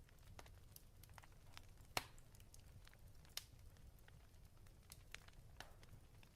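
Faint fireplace crackle: irregular sharp pops and snaps over a low rumble, with one louder pop about two seconds in and another a little later.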